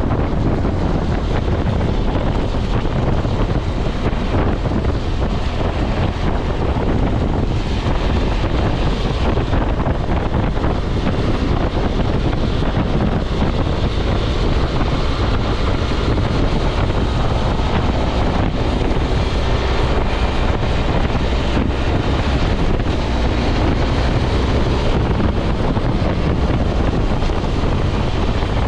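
Wind rushing over the microphone of a moving BMW F650 motorcycle, with its engine running steadily underneath.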